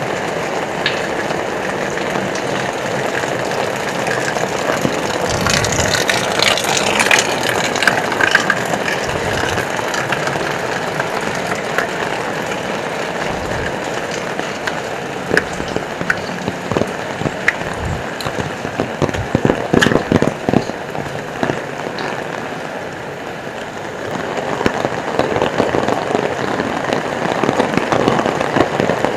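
Heavy rain pouring steadily, with scattered louder drops and splashes standing out now and then.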